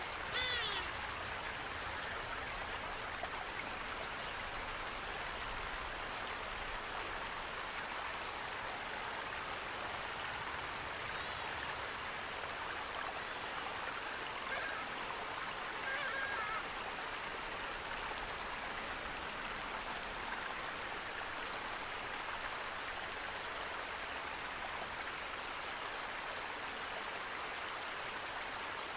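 Running water rushing steadily, like a stream or small waterfall. A short bird call sounds about half a second in, and a fainter one about halfway through.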